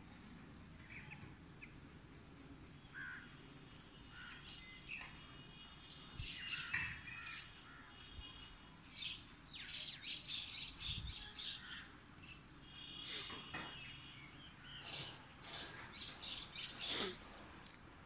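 Several birds calling and chirping in overlapping short calls, with a couple of longer high trills; the calls grow busier after the first few seconds.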